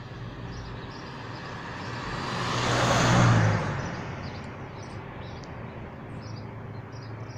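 A vehicle passing by: its noise builds, peaks about three seconds in, then fades away, with faint insect chirping behind it.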